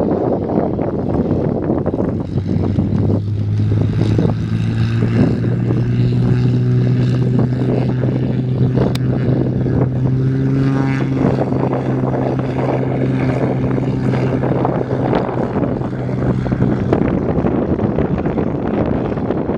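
Aircraft engines with a steady low hum that comes in a few seconds in and fades out near the end, over a constant rumble of wind on the microphone.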